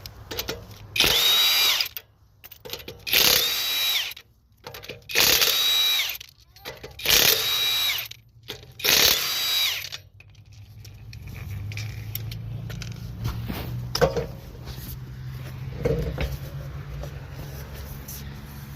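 Power tool triggered in five short bursts about two seconds apart, each winding up to a steady whine and winding down. A steady low hum follows near the end.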